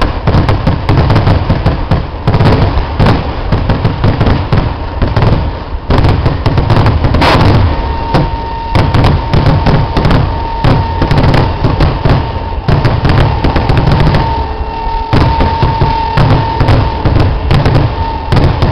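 Temple-festival fireworks going off in a loud, continuous barrage of rapid bangs, one after another with hardly a pause. A steady high tone joins about halfway through.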